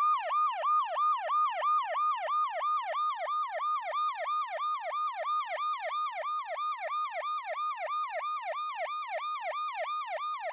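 Electronic siren in a fast yelp, its pitch swooping up and down about three to four times a second, growing slightly quieter as it goes.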